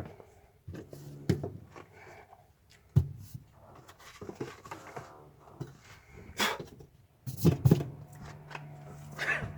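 Irregular knocks, clicks and rustling of hands working with parts or tools, the loudest knocks about seven and a half seconds in, with a steady low hum in the last couple of seconds.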